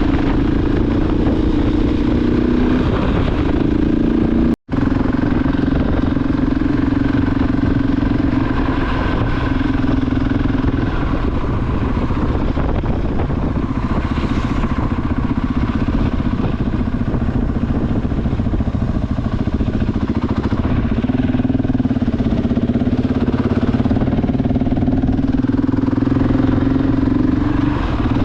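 KTM 690 Enduro R's single-cylinder engine running steadily, its pitch shifting a little, with a brief break in the sound about four and a half seconds in.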